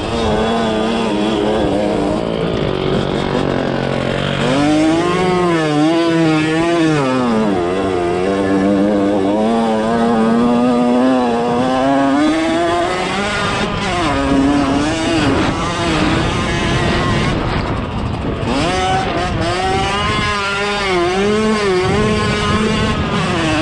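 Dirt bike engine heard from on board while riding a sand track, its pitch swooping up and down repeatedly with the throttle, holding steady for a few seconds in the middle.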